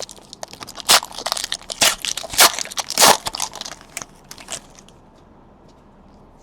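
Trading card packs and cards being handled: a quick run of crinkling, crackling and snapping of wrappers and card stock for about four and a half seconds, then it goes quiet.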